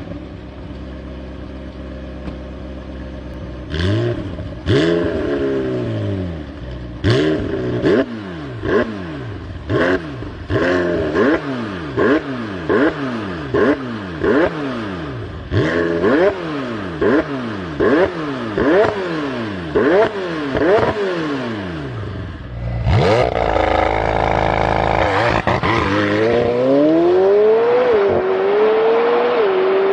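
McLaren 720S twin-turbo 4.0-litre V8 idling, then revved over and over in quick blips, about one a second, each rising and falling in pitch. Near the end the car is driven along a road under a long, sustained pull, the pitch then wavering and slowly falling.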